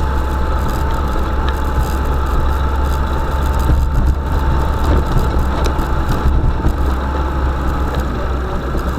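Vehicle engine running steadily with a low drone, with a few faint knocks or rattles about four to six seconds in.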